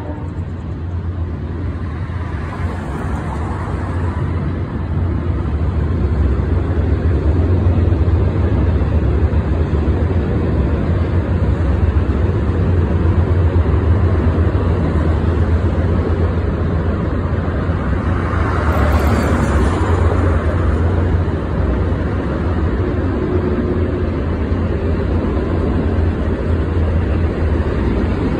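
Union Pacific freight train's cars rolling past in a steady rumble, with road traffic passing in the foreground; one vehicle swells past about two-thirds of the way in.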